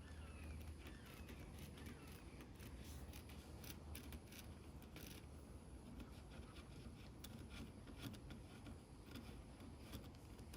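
Near silence: faint scattered clicks and light scrapes of handling.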